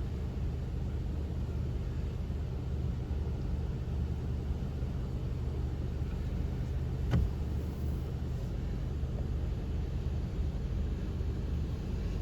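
Steady low rumble of a vehicle idling, heard from inside its cabin, with one sharp click about seven seconds in.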